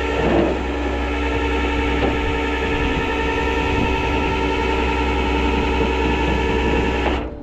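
A truck engine running steadily, a whine of several steady tones over a low rumble, that stops suddenly near the end.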